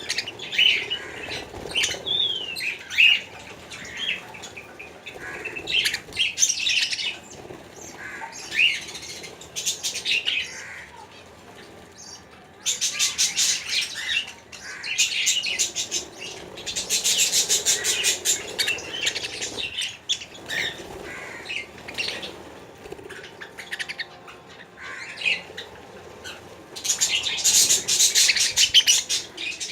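Several birds chirping and squawking in short call notes. Three stretches of fast, rattling sound lasting a couple of seconds each come in the second half.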